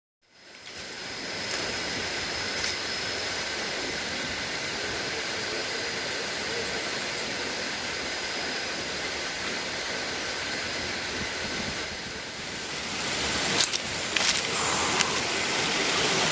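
Steady rushing of a waterfall's water, fading in at the start and growing louder near the end. A few sharp clicks come about three-quarters of the way through.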